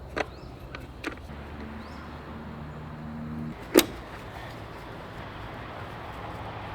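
Light clicks and then one sharp knock, a little under four seconds in, as parts are forced loose on a Suzuki DR200 motorcycle. A steady low hum runs underneath and stops about three and a half seconds in.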